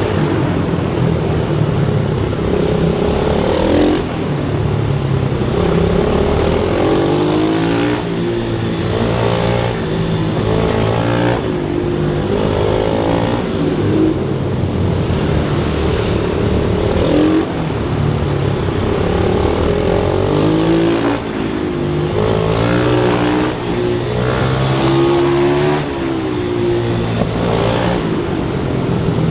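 Small-capacity motorcycle engine of a pit bike under hard riding, loud throughout, its pitch rising repeatedly as it revs up and then dropping back on gear changes and when the throttle is closed.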